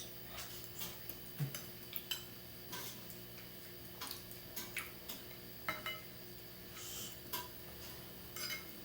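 Cutlery clinking and tapping against dishes during a meal: light, irregular clinks, a few of them ringing briefly.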